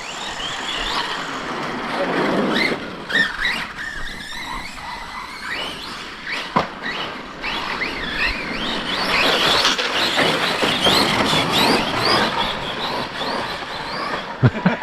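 Electric RC monster trucks driving on dirt, their brushless motors whining up and down in pitch over and over as they speed up and slow down, over a steady hiss of tyres on the ground.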